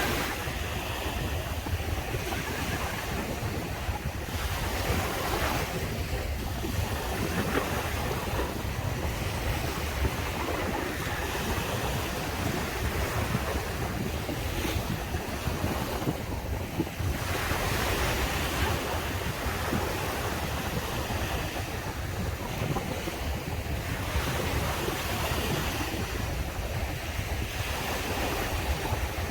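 Ocean waves breaking and washing on the shore, the surf swelling and easing every few seconds, with wind buffeting the microphone.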